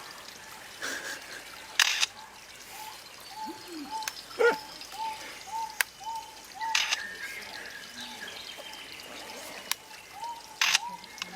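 A baby bird cheeping steadily: short, soft peeps that rise and fall, repeating about two to three times a second, with a few brief rustles and clicks in between.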